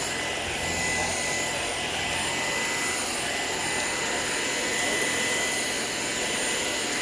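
Shark PowerDetect cordless stick vacuum running steadily, a constant rush of air with a high motor whine that wavers slightly in pitch as it is pushed over the floor.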